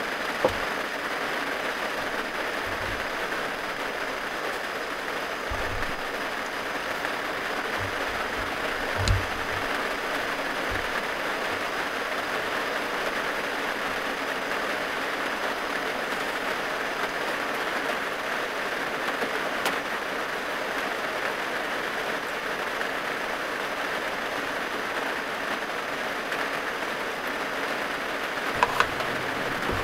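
Heavy rain falling steadily on the roof and body of a small van, heard from inside. A few soft low thumps come in the first third, and a couple of light clicks near the end.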